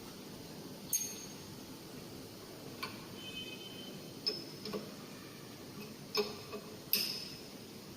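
Metal parts of a saw blade grinder clinking as they are handled, about six separate sharp knocks with a short metallic ring, over a faint steady low hum. The handling is part of swapping the grinding wheel for a thinner one.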